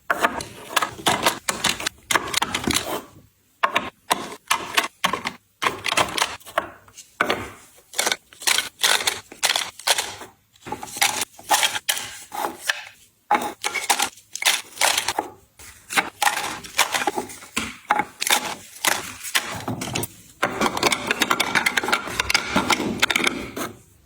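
Hands handling and setting down packaged items and containers: a dense run of clicks, taps and knocks with rustling between, and a steadier stretch of rustling near the end.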